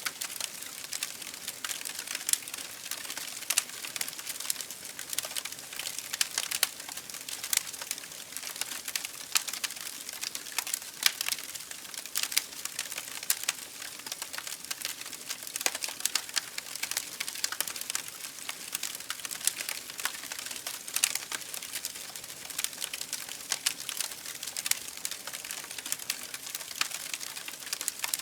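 Campfire crackling: a steady stream of irregular sharp pops and snaps from burning wood over a soft hiss.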